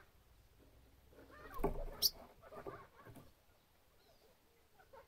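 Small bird calling: a cluster of short chirps with a sharp high chirp about two seconds in, over a brief thump just before it.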